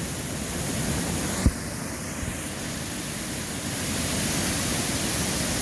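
Swollen floodwater rushing over a river weir, a steady wash of water noise with strong current. A brief low thump about one and a half seconds in.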